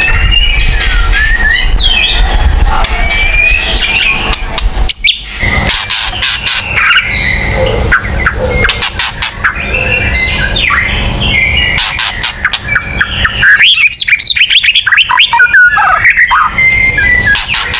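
White-rumped shama singing steadily: a loud, varied string of whistles, chirps and sharp clicking phrases, with a quick rapid-fire run of notes about fourteen seconds in.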